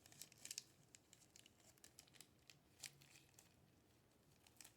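Near silence with faint, scattered small clicks and crinkling from small parts being handled by hand.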